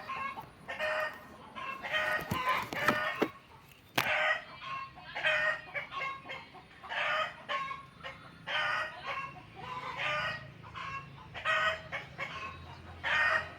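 Chickens clucking in short, repeated calls, about one a second, with a sharp click about four seconds in.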